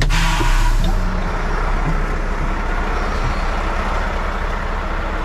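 Heavy truck running steadily, with a burst of air hiss at the start that fades away within about a second.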